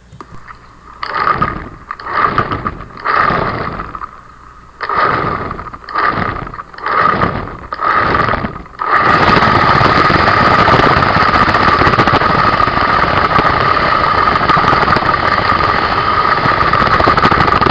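Small electric drive motor and gears of a homemade RC car, run in about seven short throttle bursts, then held on continuously at high speed, with a steady high whine.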